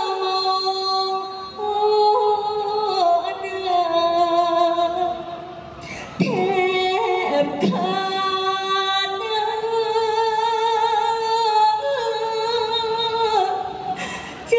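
Female likay singer's voice singing long, wavering held notes that step from pitch to pitch in the Thai folk-opera style. A few low knocks come in about six seconds in.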